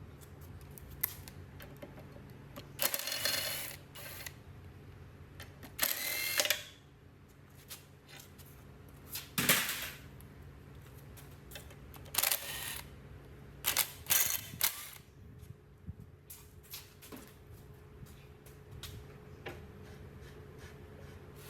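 Hand work on metal machine parts: a series of short scraping and clattering bursts, about five of them with pauses between, and scattered sharp clicks and knocks, over a faint steady hum.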